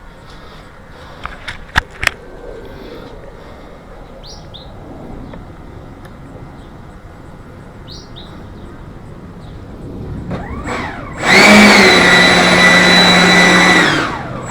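A 3D-printed L-39 model jet's engine spools up with a rising whine, runs at a loud steady high-pitched whine for about three seconds, then winds down near the end. Birds chirp briefly before it, and there are a couple of sharp clicks.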